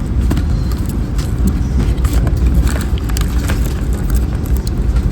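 Train in motion heard from inside the carriage: a steady low rumble with scattered light clicks and rattles.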